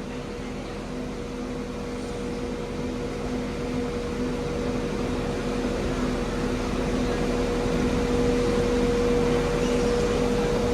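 Diesel multiple unit idling at the platform: a steady mechanical hum with two constant tones, growing gradually louder.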